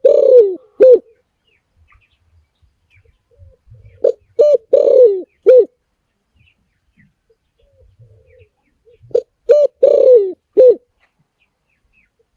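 Spotted dove calling: three cooing phrases about five seconds apart, the first already under way. Each phrase is a few short coos around one longer, falling coo.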